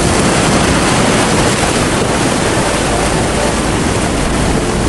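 Heavy rain pouring down on a street, a loud, steady rush of water.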